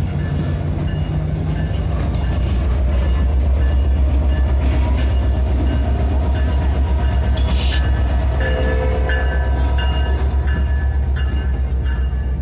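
Canadian Pacific Holiday Train passing close by: a heavy, steady low-pitched running sound of the train on the rails, growing louder over the first few seconds, holding, then easing slightly near the end.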